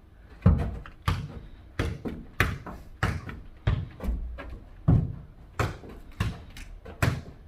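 A ball being kicked and bouncing on the floor in a quick foot-volleyball rally: about a dozen sharp thuds, roughly every half second.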